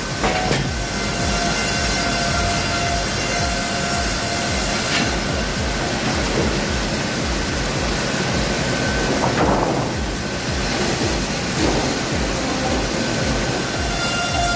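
Sawmill machinery running: a steady rumble and clatter with thin steady whining tones that fade in and out, and a louder noisy swell about nine seconds in.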